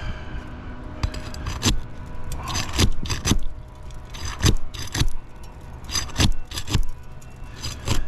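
A tool clicking and scraping against old asphalt roof shingles in short, sharp strokes, often in pairs about every second, as a tightly sealed shingle is worked loose. A steady low hum runs underneath.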